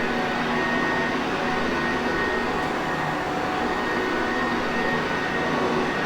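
Sanitaire Perfect vacuum cleaner motor running steadily, a constant rushing noise with a faint high whine.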